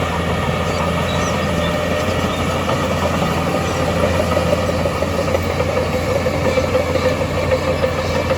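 Heavy construction machine's diesel engine running steadily, with a whine that grows stronger about halfway through.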